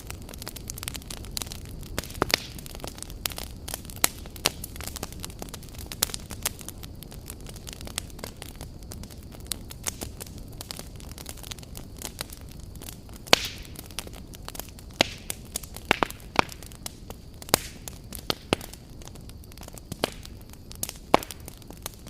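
Wood campfire burning: a steady low rumble of flames with frequent irregular crackles and sharp pops of burning logs.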